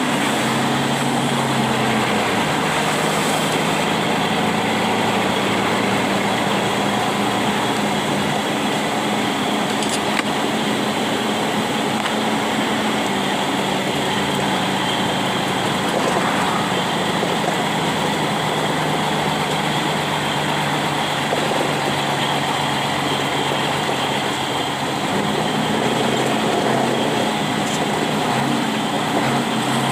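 A vehicle driving in heavy rain: a steady engine drone with slowly shifting pitch under an even hiss of rain and wet road.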